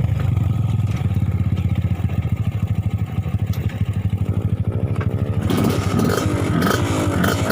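Trail motorcycle engine running with a steady low pulsing beat. From about five and a half seconds in, a brighter engine sound joins, its pitch rising and falling as it is revved.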